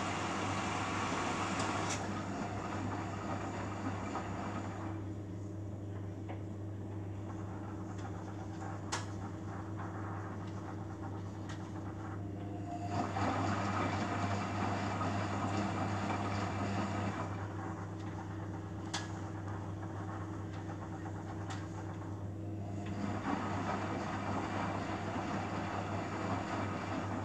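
Beko WMA 1510 W washing machine tumbling its drum in spells of several seconds with quieter pauses between, over a steady low hum and a few sharp clicks. This is a rinse into which no cold water is being let, a fill fault.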